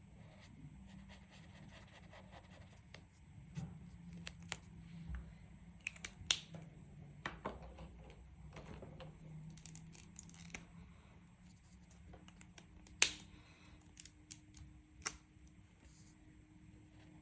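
Coloring tool scratching quietly on paper, broken by several sharp clicks and taps, the loudest a little after six seconds and again about thirteen seconds in.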